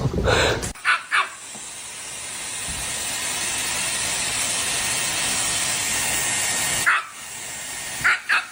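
A dog gives two short yips, then a steady hiss comes in, swells and holds for about six seconds. It stops suddenly, and a few more short yips follow near the end.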